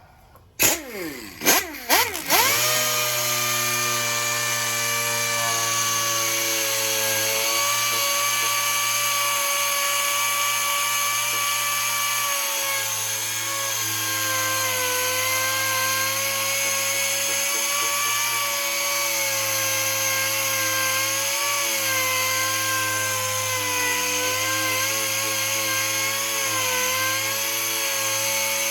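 Handheld power sander started with a few short blips, spinning up about two seconds in, then running steadily with its pitch wavering slightly under load as it sands surface rust off steel car body panels.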